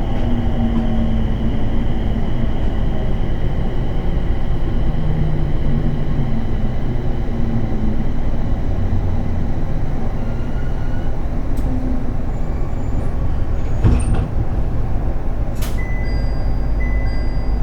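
Cabin running noise of a JR East 701 series electric train slowing into a station: a steady low rumble of wheels and motors, with a motor whine falling slowly in pitch early on. Several sharp clicks come in the second half, and short high beeps sound near the end as the train comes to a stand.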